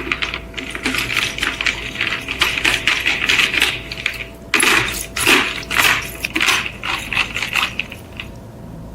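Metal being worked by hand on rusted steel scissors: rapid, irregular metallic scraping and clinking strokes, in two runs with a short break about four seconds in.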